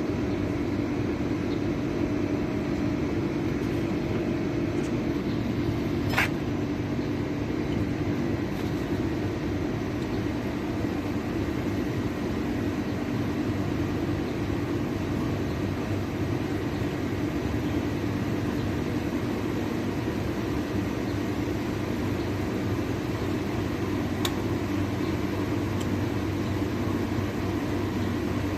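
A steady mechanical hum with a low drone, broken by a sharp click about six seconds in and another near the end.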